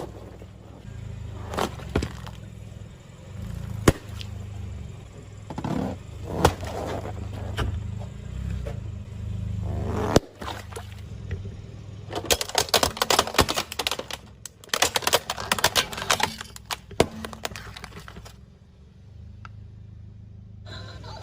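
A car tyre rolling slowly over crunchy objects and crushing them: sharp single cracks and snaps every few seconds, then a dense run of crackling and breaking past the middle, over the car's low steady rumble.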